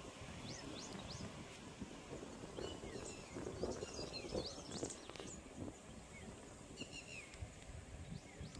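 Small birds chirping with short, quick calls again and again over a steady background of outdoor noise.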